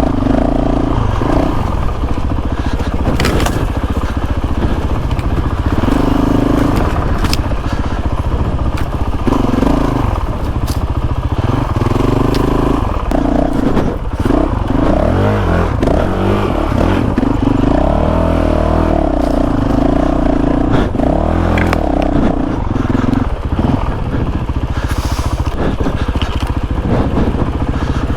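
Honda CRF450RL single-cylinder four-stroke dirt bike engine revving up and down as it is ridden over rough trail, the pitch climbing and dropping every second or two. Sharp clicks and clatter of stones against the bike run through it, over a steady low rumble.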